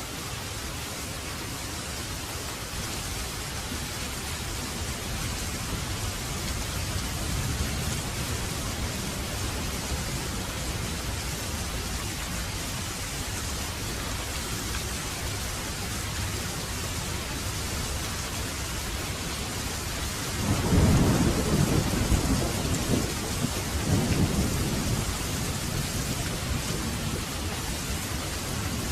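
Heavy rain pouring steadily, with thunder rumbling low beneath it. A louder roll of thunder breaks about two-thirds of the way through and rolls on for several seconds.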